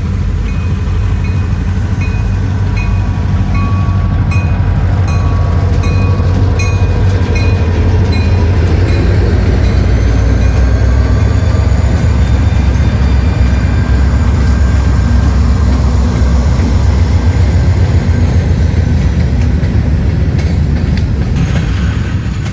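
Diesel freight locomotives rumbling past with a grain train, with steady rolling noise from the rail cars. A regular high-pitched ticking, about two to three a second, runs through roughly the first eight seconds.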